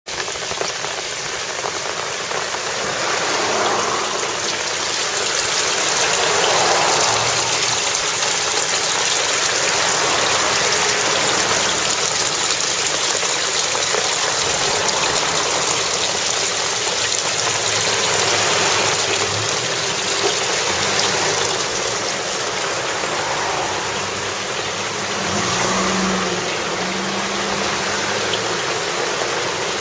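Heavy downpour with storm runoff pouring off the road into a roadside collecting gutter, a steady loud rushing hiss. Vehicles pass on the wet road several times, each swelling and fading, with engine hum in the last pass, about 25 seconds in.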